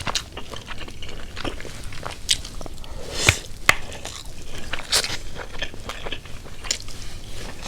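Close-up chewing and mouth smacking of a person eating burger steak with rice: a run of irregular short clicks and smacks, loudest a little after three seconds in and again about five seconds in.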